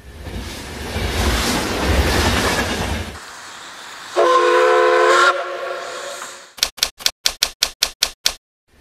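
Train sound effects: a train rushing past with a rumble for about three seconds, then a single chord horn blast of about a second, then a quick run of typewriter key clicks, about six a second.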